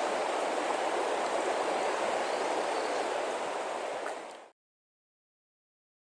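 River water rushing steadily, cutting off suddenly about four and a half seconds in.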